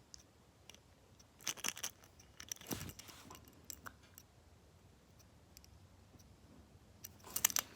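A few faint clicks and rustles of small objects being handled, with quiet stretches in between.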